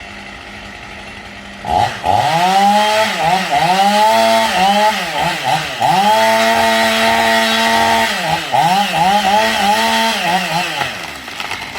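Two-stroke chainsaw engine running low and quiet at first, then revved up and down over and over from about two seconds in, held at high revs for a couple of seconds in the middle.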